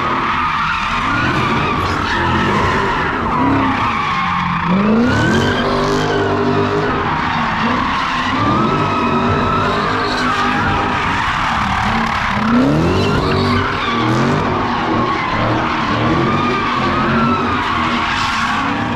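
A car's tyres squealing in a continuous skid while its engine revs climb again and again, several times over, as in donuts at a street takeover.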